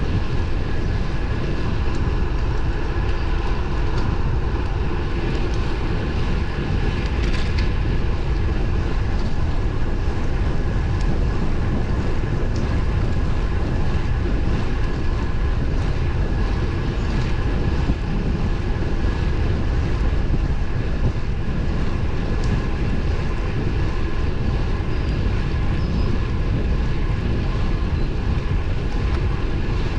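Steady wind rush and road noise from a road bike riding along at speed, heaviest in the low end. A faint steady whine runs through it.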